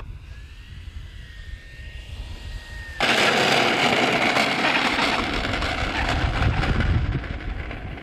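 Electric motor and propeller of a large RC model Cessna 150: a faint, steady high whine, then about three seconds in a sudden, much louder rushing noise as the plane comes close.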